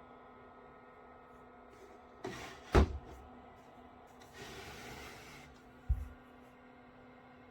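Mini fridge door handled: a short swish and a sharp knock as it shuts, then a rustle and a second, duller thump, over a faint steady hum.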